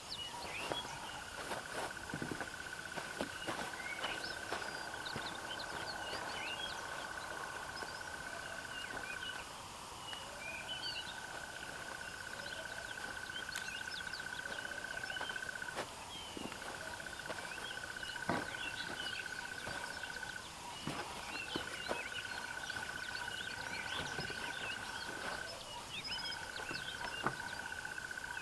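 Small 12V pump motor of a cordless portable pressure washer whining steadily in spells of several seconds, cutting out briefly about four times and starting again. The motor runs but the pump is not moving any water. Birds chirp in the background.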